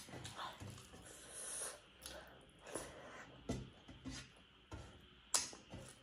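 Chewing and mouth smacking of a person eating, with irregular short wet clicks. The sharpest click comes about five seconds in.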